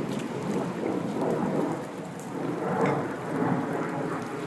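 Rain falling, with a child in rubber boots splashing in a puddle; the splashing swells several times.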